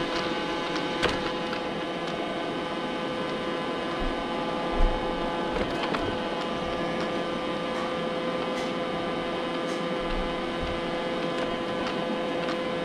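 Robot vacuum cleaner running: a steady motor hum and fan hiss, with a few short clicks and a low knock about five seconds in.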